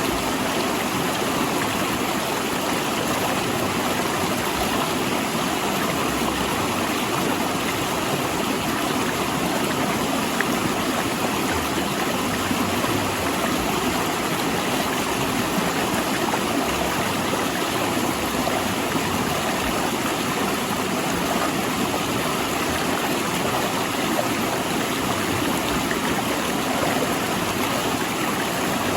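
River water rushing and splashing between large rocks, a steady, unbroken rushing noise.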